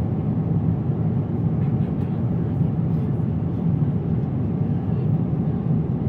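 Steady cabin noise of a Boeing 777-300ER airliner in flight: a constant low rumble with airflow hiss above it.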